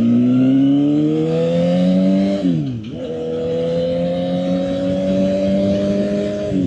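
Suzuki GSX-R750 inline-four engine accelerating hard, its pitch climbing. About two and a half seconds in it drops sharply for a quick upshift, then climbs again more slowly through the next gear.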